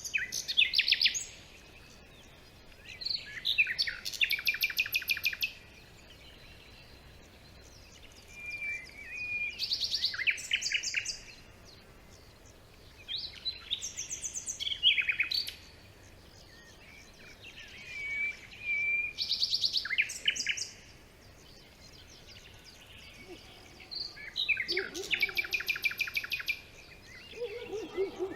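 Songbird singing in a forest: short phrases of rapid trilled notes, repeated every few seconds with pauses between. Near the end a fainter, lower-pitched call joins in.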